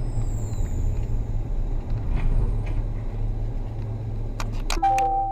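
Car driving, with a steady low rumble of engine and road noise. Near the end come a handful of sharp clicks, then a steady electronic-sounding tone.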